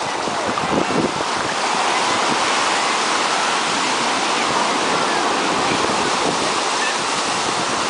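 Ocean surf washing steadily, a constant rush of breaking waves and water.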